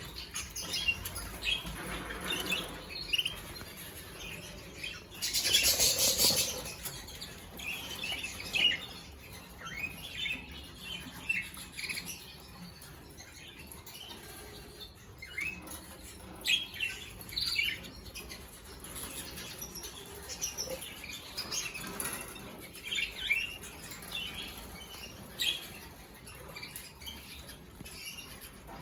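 Canaries chirping in short scattered calls, with a loud burst of fluttering wings about five to six seconds in.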